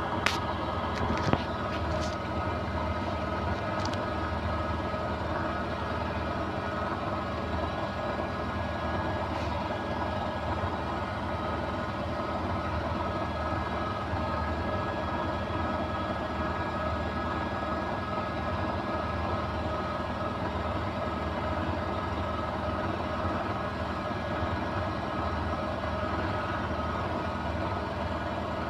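Beko WMY81283LMB2 washing machine on its final spin with an unbalanced load, motor and drum running at a steady speed with a constant hum and whine. A few short knocks sound in the first couple of seconds.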